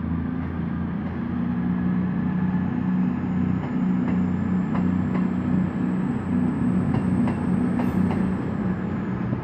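Class 221 Super Voyager diesel-electric train pulling out: its underfloor diesel engines run with a steady low drone and a faint high whine that rises slowly in pitch. From about four seconds in, clicks of the wheels passing over rail joints.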